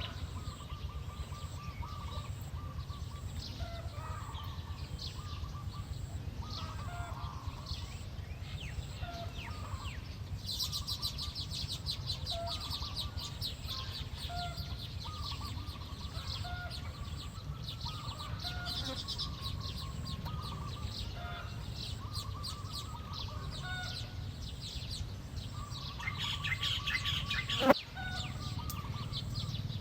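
Small birds chirping and twittering in quick, high notes, densest from about ten seconds in, over a steady low hum. A single sharp click near the end.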